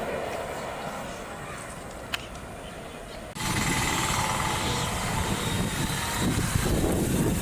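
A WAG7 electric locomotive running light rolls on and slowly fades, with a single sharp click about two seconds in. A little over three seconds in, the sound cuts abruptly to a louder, steady engine rumble.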